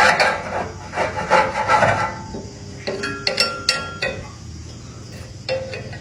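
Repeated hand scraping or filing strokes on the old banana cutter's parts, about two a second at first and then sparser, with a few short ringing clinks near the middle.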